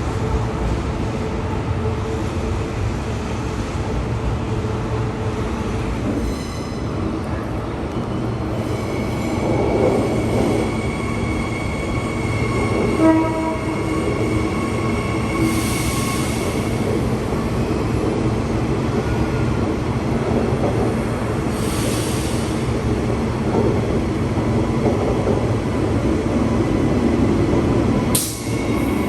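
Passenger train running on the rails: a steady rumble, with a high thin tone sounding for several seconds from about a third of the way in.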